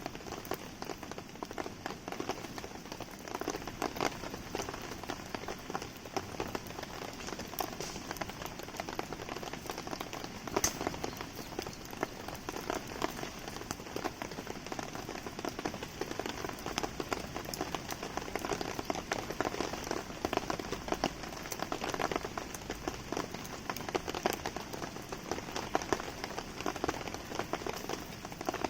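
Steady rain falling on surfaces: a dense patter of drops, with sharp ticks and pops scattered through it.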